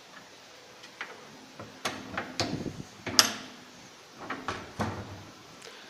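Steel ash drawer of a fireplace being slid and handled: several metallic knocks and short scrapes, the loudest knock about three seconds in.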